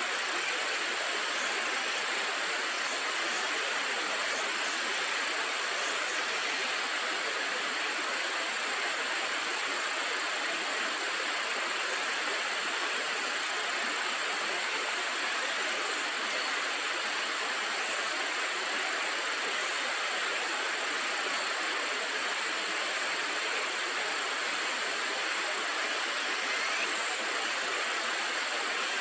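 River water rushing over rapids, a steady even roar without a break.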